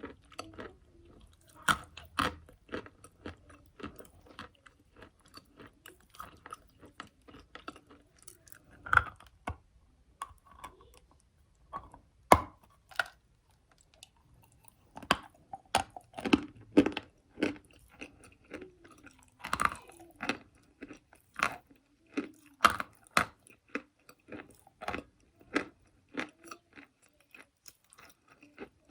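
Close-up biting and chewing of chalk: irregular sharp crunches and crackles, with a few loud snaps about 12, 20 and 23 seconds in.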